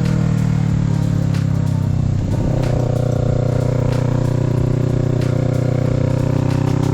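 Kawasaki Z650's parallel-twin engine running under way, heard from the rider's position. About two seconds in the engine note breaks and dips briefly, then holds steady again.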